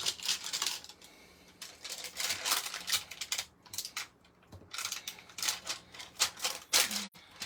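A rubber stamp tapped repeatedly onto an ink pad and pressed onto cardstock: quick clusters of light taps and clicks with short pauses between them.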